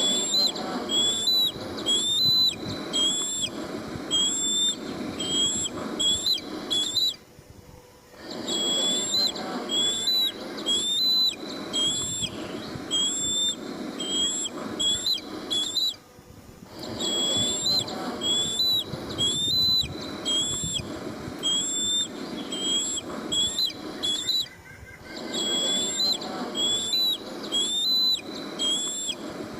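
A bird repeating a short, high whistled note about once a second over a steady background hiss of other ambience, with brief breaks about every eight or nine seconds.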